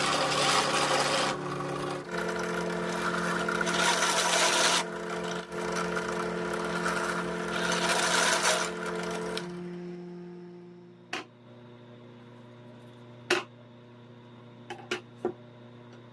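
Electric power tool cutting or sanding wood, its motor humming steadily under bursts of rough grinding noise. About ten seconds in it is switched off and winds down, followed by a few sharp knocks of wood on wood.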